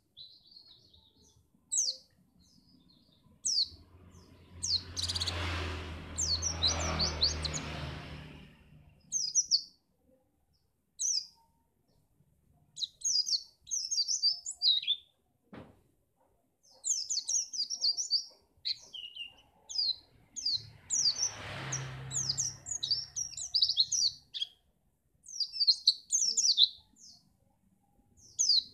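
Pleci (white-eye) singing: bursts of rapid, high chirping phrases with short pauses between them. A low rumble rises and fades twice, about five seconds in and again about twenty-one seconds in, and there is one sharp click near the middle.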